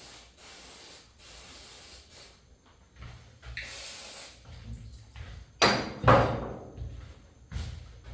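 Handling noises from engine assembly work: a brief rustle, then two sharp knocks about half a second apart with a short ring after them, and a smaller knock a second and a half later.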